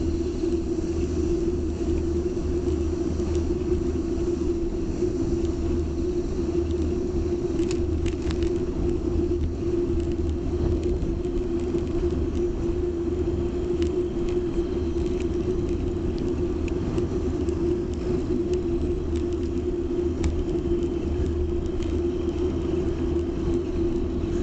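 A steady low hum over a constant rumble, with faint high thin lines above and a few light clicks.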